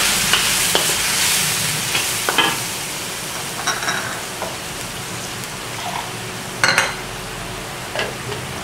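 Ground spice paste sizzling in hot oil in a wok, stirred with a metal spatula that scrapes against the pan now and then. The sizzle is strongest at first and eases a little after a couple of seconds.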